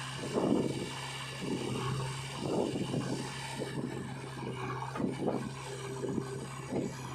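Heavy diesel machinery engine running steadily, with uneven scraping and knocking noises coming and going on top.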